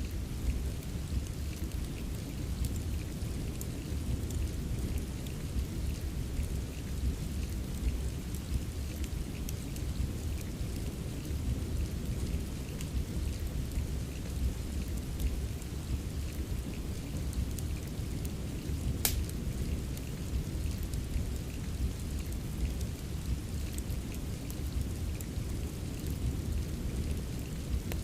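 Steady rain with a deep low rumble beneath it, mixed with a wood fire crackling in faint scattered ticks and one sharp pop about two-thirds of the way through.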